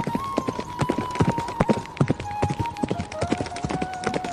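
Horse hooves clip-clopping in quick, irregular knocks. A thin held-note melody runs underneath, stepping down in pitch about halfway through.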